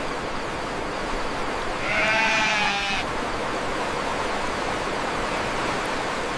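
A farm animal bleating once: a single quavering call about a second long, starting about two seconds in, over a steady hiss.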